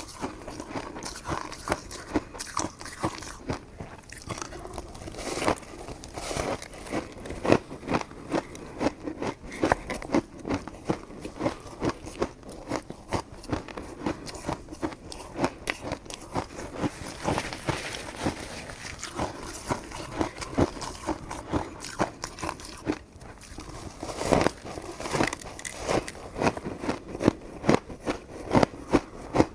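Close-miked eating sounds: chewing and biting into soft, sticky coconut rice cake, with wet mouth smacks and clicks repeating every fraction of a second.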